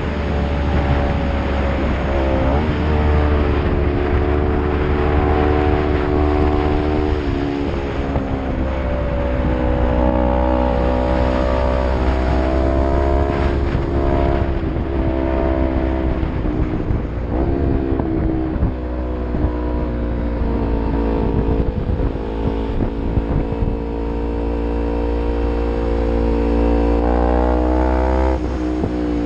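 Yamaha MT-03 motorcycle with an aftermarket Arrow full-system exhaust running under load on a climb, its engine note stepping up and down in pitch several times as the rider accelerates and changes gear.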